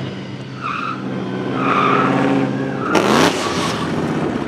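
Drift car engine running hard with tyres squealing in short chirps. About three seconds in, the engine note slides and a loud rasping burst of noise cuts in.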